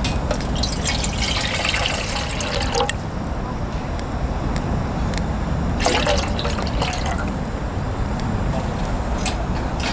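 Water being poured and splashing in two spells, about a second apart from the start and again about six seconds in, over a steady low rumble.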